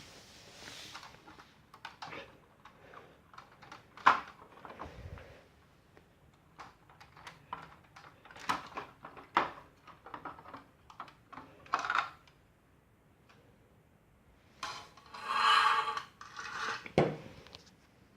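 Scattered small clicks, taps and rubbing, like objects being handled, with a sharp knock about four seconds in and a louder, longer burst near the end.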